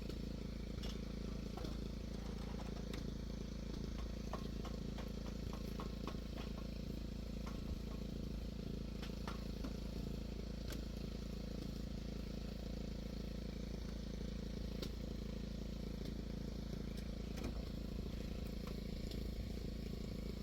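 A steady low mechanical drone, like a motor running at an even speed, with scattered light clicks and taps over it.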